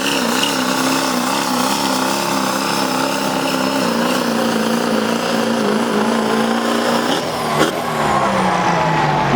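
Duramax V8 turbodiesel of a Chevrolet pulling truck running at high revs under heavy load against the sled, holding a steady pitch. About seven seconds in it revs up briefly, then winds down as the pull ends.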